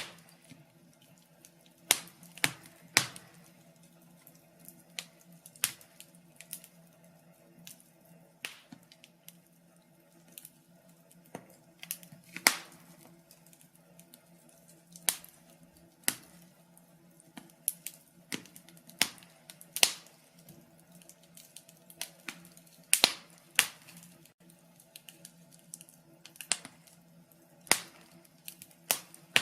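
Wood fire crackling in a fireplace: irregular sharp pops and snaps, a few of them much louder, over a faint steady low hum.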